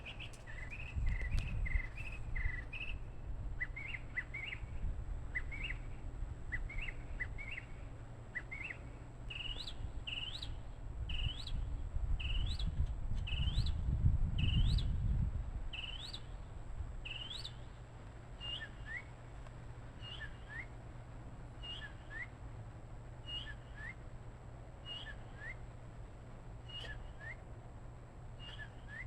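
A bird calling over and over in short chirps that sweep upward, about one a second, repeated steadily. A low rumble swells under the calls about a second in and again around halfway.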